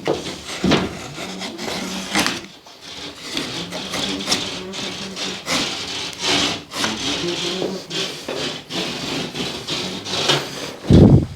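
Repeated scraping and rubbing strokes on a plasterboard (drywall) sheet as it is trimmed and worked to fit, with a heavy thump near the end.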